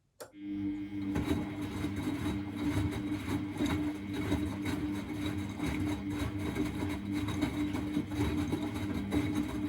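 Miele Novotronic W921 washing machine's drum motor switching on with a click and running steadily with a hum and rumble as the drum turns during the wash.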